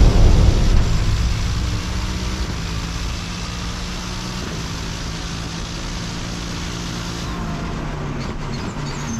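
Twin-turbo Chevrolet Corvette time-attack car's V8 engine running hard on track. A deep boom dies away over the first couple of seconds, and near the end the engine note falls in steps.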